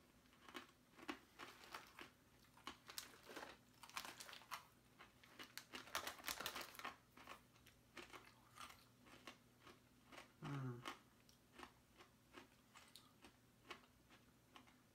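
A person chewing crunchy Bissli wheat snacks: a faint, irregular run of crisp crunches, with a brief low hum from the eater about ten seconds in.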